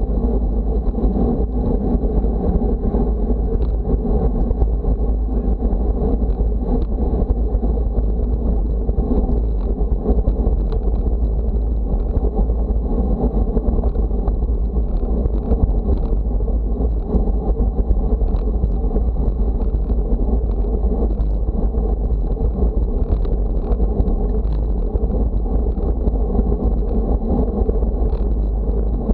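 Steady wind rumble buffeting the microphone while moving, a dense low roar with faint scattered ticks and no pauses.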